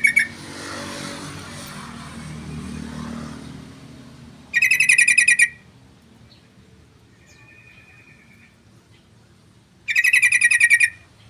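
Yellow-vented bulbul (trucukan) singing: short bursts of rapid chattering notes, each about a second long, repeating roughly every five seconds. A faint low rumble sits under the first few seconds.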